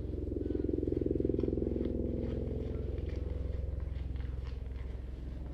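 Car engine running with a steady low hum, swelling for a couple of seconds about a second in, then easing back.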